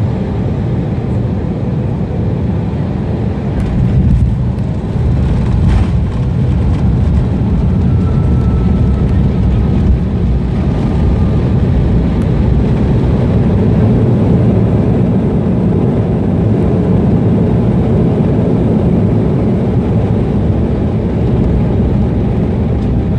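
Steady low rumble of jet engine and airframe noise heard inside an airliner's cabin as the aircraft rolls on the ground after landing.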